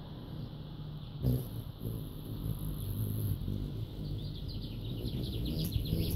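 Bird chirping, with a quick run of short high chips near the end, over a steady low rumble and a single bump about a second in.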